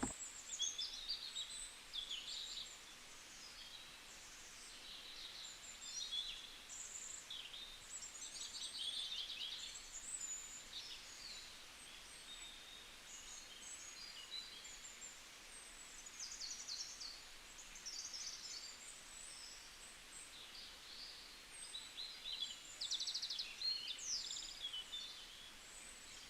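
A flock of birds chirping and calling over one another, a continuous chatter of short, high-pitched chirps and quick trills.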